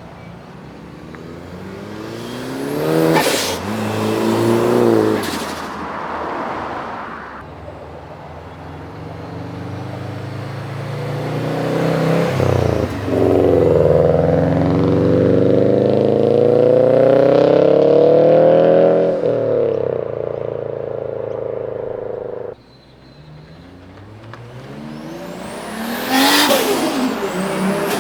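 Modified Japanese performance cars accelerating hard away one after another, their engines revving up with rising notes broken by gear changes. Near the end one car passes close by, loud and brief.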